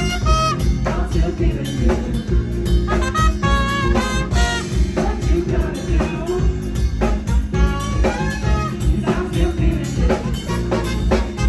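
Live band music in a jazz style: drum kit and bass keep a steady groove under a shifting lead melody.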